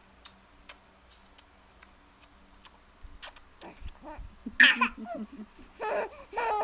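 Baby smacking and sucking on a piece of apple in a string of short clicking mouth sounds, about two a second, then a loud squeal about four and a half seconds in and babbling near the end.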